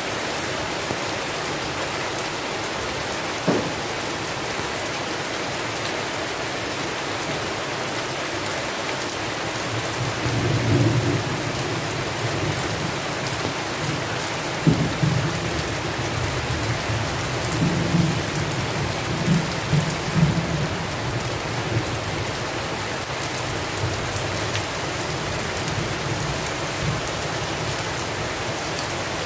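Steady heavy rain falling, with thunder through the middle. There is a sharp crack about three and a half seconds in, a low rumble swelling around ten seconds, and another crack near fifteen seconds followed by rolling rumbles that die away a few seconds later.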